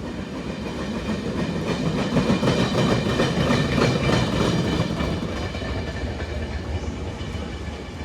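Train running past, wheels clattering over the rail joints with a high steady ringing. It is loudest about two to four seconds in, then fades.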